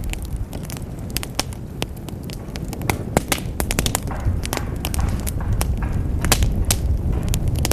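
Wood fire burning in a fireplace: frequent sharp crackles and pops over the low, steady rumble of the flames.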